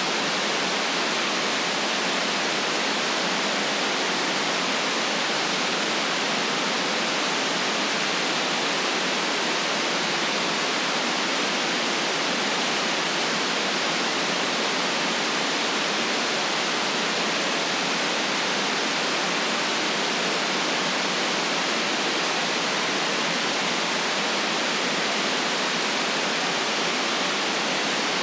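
Steady synthetic white noise, an even hiss that does not change.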